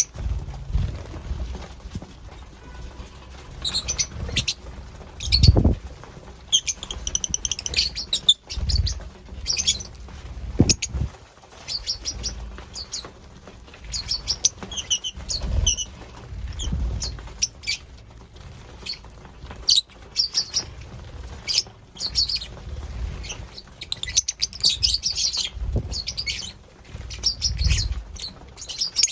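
Lovebirds chirping in short, repeated high calls, with wing flutters and scattered low thumps.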